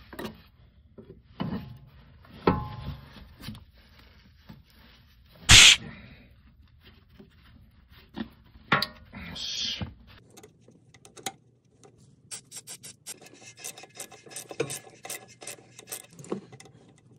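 Hand tools working on a car's underbody: scattered metal clicks, knocks and scraping, with one loud clank about five and a half seconds in. From about twelve seconds a socket ratchet clicks quickly as it is worked on a bolt.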